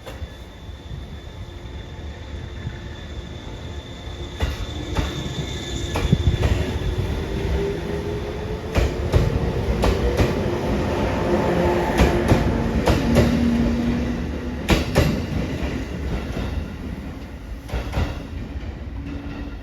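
Train running past on rails, with pairs of sharp clicks as its wheels cross rail joints. Tones rise in pitch through the middle as it comes closest, then the sound eases off towards the end.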